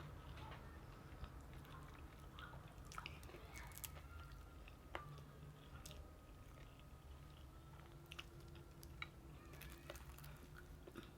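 Faint close-up chewing with scattered sharp crunches: a person biting into and eating crispy fried chicken, over a low steady hum.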